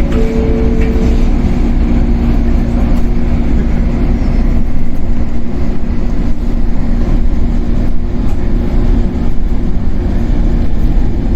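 Shinano Railway 115 series electric train running, heard from inside the motor car KuMoHa 115-1013: a steady rolling rumble from the wheels and running gear with a steady hum. A short higher tone stops about a second in.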